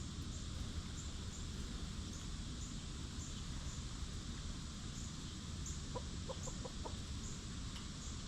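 A hen clucking: a quick run of about five short clucks a little past the middle, over a steady outdoor hiss and low rumble. A faint high chirp repeats throughout.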